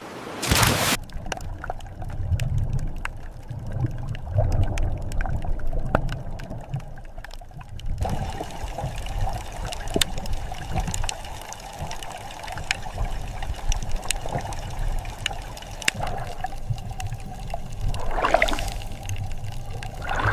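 Underwater ambience: a low, shifting water rumble with many scattered sharp clicks, and short gurgling bubble rushes just after the start and again near the end.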